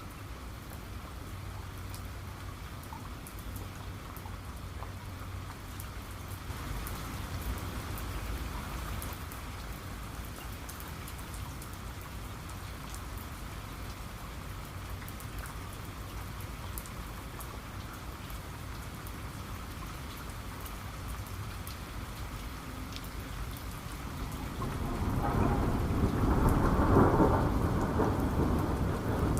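Steady rain with scattered drops ticking, and a long roll of thunder rumbling in near the end, the loudest sound.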